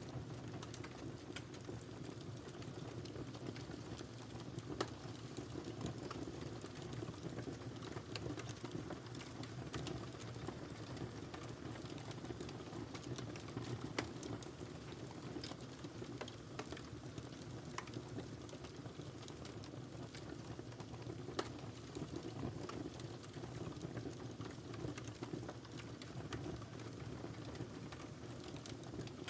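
Wood fire crackling with irregular small snaps and a few sharper pops, over a low steady rumble.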